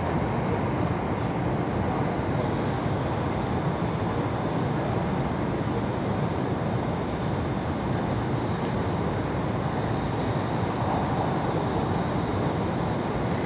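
Taiwan High Speed Rail train running at speed: a steady, even rushing rumble with no change.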